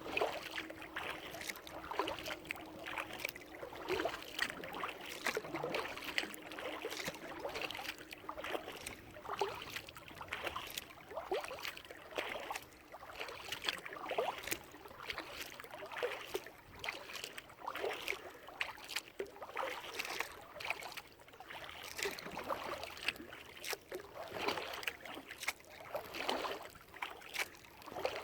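Kayak paddle strokes: the blades dip and splash into the water about once a second, stroke after stroke.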